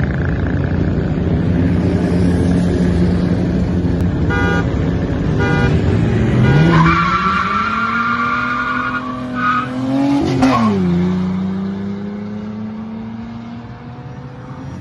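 Stock V6 car engine revving hard and held at high revs, with tyres squealing in a burnout. The revs climb sharply about seven seconds in, drop back near eleven seconds, then hold lower and slowly rise.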